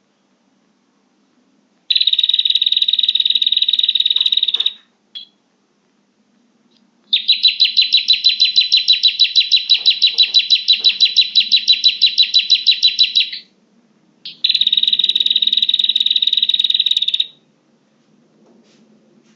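Recorded prinia (prenjak) calls played as a bird-trapping lure: three bouts of fast, high, repeated chirping, the middle bout about twice as long as the others, with short pauses between them.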